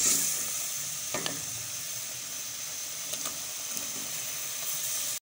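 Onion-and-spice masala sizzling in oil in an aluminium pot while it is stirred with a wooden spoon. The steady frying hiss cuts off suddenly near the end.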